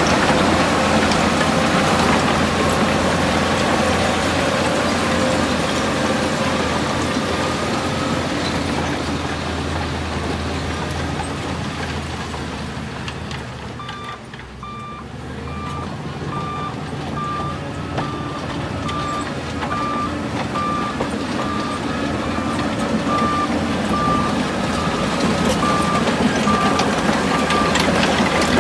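Heavy diesel earthmoving machinery running, its engine sound easing off a little around the middle. From about halfway a reversing alarm beeps steadily, about one beep a second.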